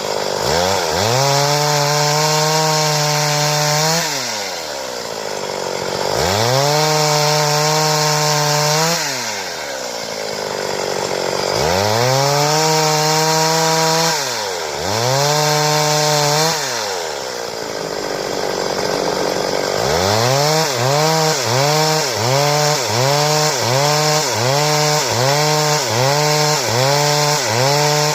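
Stihl two-stroke chainsaw being throttled up and down while cutting boards. The engine speed climbs to a steady high pitch and holds for a few seconds, then drops back, several times. From about two-thirds of the way in it surges and falls off a little faster than once a second.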